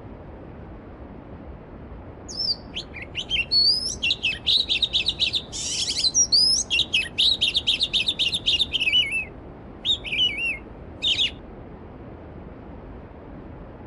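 A songbird singing a long, rapid warbling phrase of quick chirps and trills, followed by two short phrases a little later, over the steady rush of a stream.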